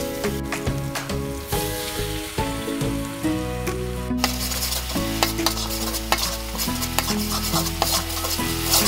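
Sambal chili paste sizzling and frying in oil in a wok while a metal spatula stirs and scrapes it against the pan, with short scraping ticks over a steady sizzle. Background music with held notes plays underneath.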